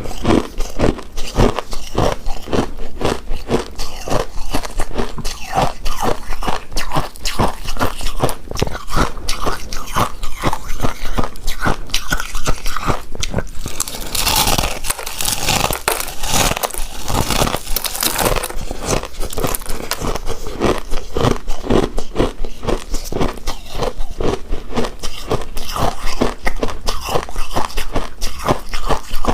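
Close-miked chewing and biting of a shredded-coconut-covered pink rice cake: a continuous run of rapid mouth clicks and smacks, with a brighter, crisper stretch about halfway through.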